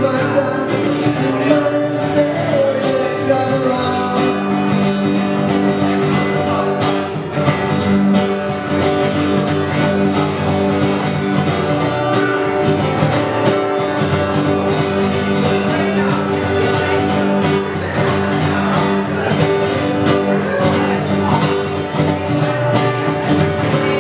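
Live acoustic guitar music, plucked and strummed, with some singing.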